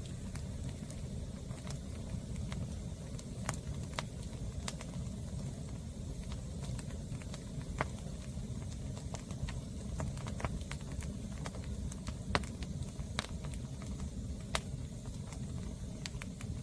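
Green firewood burning, with irregular sharp crackles and pops over a steady low rumble.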